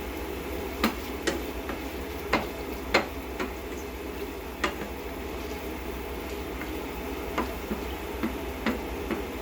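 Chicken and diced potatoes being stirred in a frying pan: irregular clicks and knocks of the utensil against the pan over a steady sizzle.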